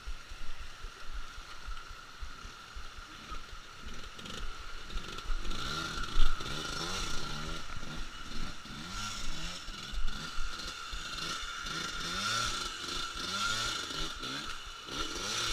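Trail motorcycle engine revving up and down over and over, rising and falling about once a second from about five seconds in, with knocks and clatter before it and a steady high whine throughout.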